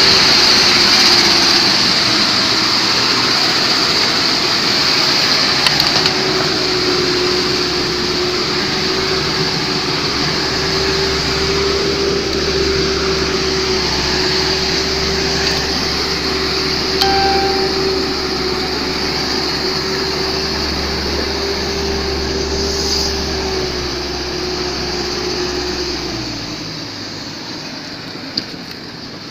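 A vehicle driving steadily, with a constant engine hum and a broad hiss of road and rain noise, fading in the last few seconds.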